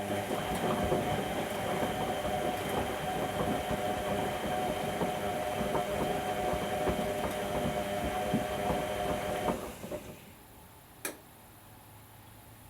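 Whirlpool Indiana 1400 washing machine turning its drum in the wash cycle: a steady motor whine with the load and toy ducks knocking and rattling as they tumble. The drum stops about nine and a half seconds in, and one sharp click follows a little later.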